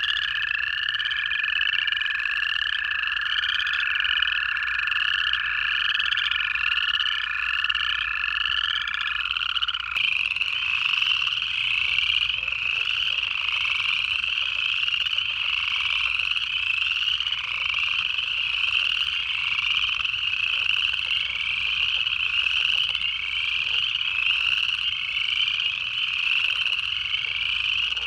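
A dense pond chorus of upland chorus frogs, their rising trilled calls repeating and overlapping. For about the first third, two American toads give long, steady, even-pitched trills at slightly different pitches; these stop about nine and ten seconds in.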